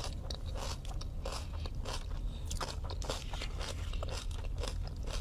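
Close-miked mukbang eating: biting into and chewing a chicken-tender and coleslaw sandwich, with many irregular crunches and wet chewing sounds.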